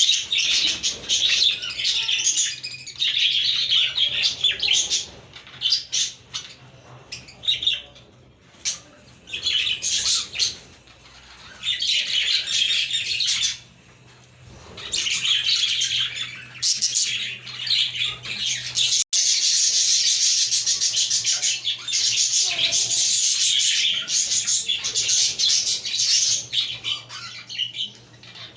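A flock of budgies chirping and warbling, many birds at once, in bursts with short lulls and then almost continuous chatter from about two-thirds of the way in. A faint steady low hum sits underneath.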